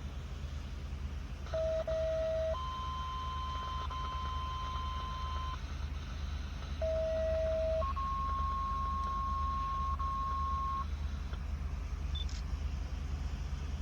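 Two-tone sequential fire-department paging tones heard over a scanner radio: a short lower tone followed by a longer higher tone, sent twice, over a steady low rumble.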